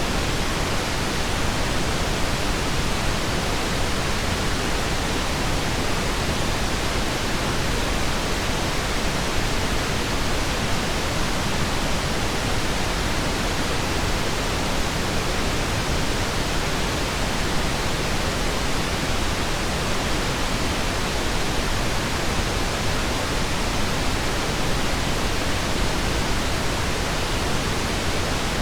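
Steady pink noise: an even, unbroken hiss, unchanging throughout.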